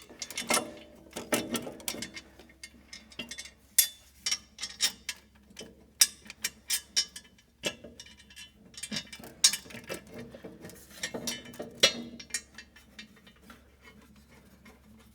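Irregular clicks, knocks and clinks of hand tools and steel exhaust-header parts as a new header is fitted and its bolts started against the cylinder head, a few knocks ringing briefly.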